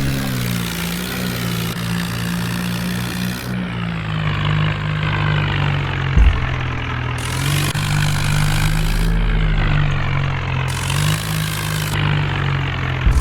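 Swaraj 855 tractor's diesel engine running, its speed dropping and picking up a little a few times. A short loud knock comes about six seconds in and again near the end.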